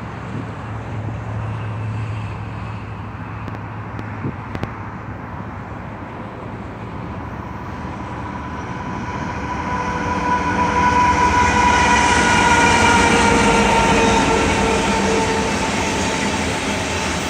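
BNSF coal train's diesel locomotives approaching at speed: a low rumble that grows louder from about halfway through. It is joined by a sustained high ringing tone that peaks and then slowly drops in pitch as the train nears.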